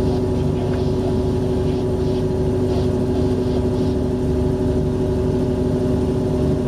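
Sailing yacht's engine running under power at raised throttle, a steady drone with a low rumble, holding an even note.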